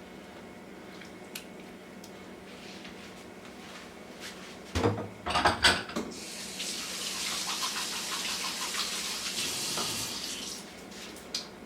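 A short clatter of kitchen items, then water running from a kitchen tap into the sink for about four seconds before it is turned off.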